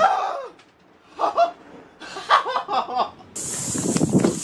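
A person laughing in short bursts, as after a fright from a close lightning strike. A steady hiss comes in near the end.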